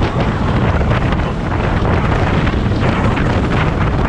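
Heavy wind buffeting the microphone on a moving motorcycle, with vehicle and road noise underneath.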